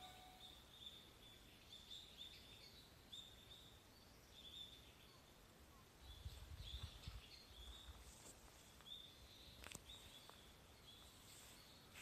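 Faint birds chirping in a forest: short high notes repeating every half second or so. A brief low rumble from the handheld camera being jostled comes about six seconds in, and a single click comes later.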